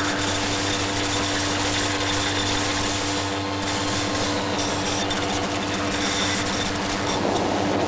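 A steady mechanical hum with a broad hiss over it, even in level throughout.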